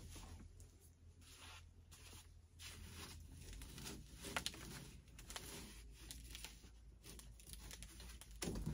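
Debris being rubbed and scraped off a copper water pipe before it is cut, in irregular, rustling strokes.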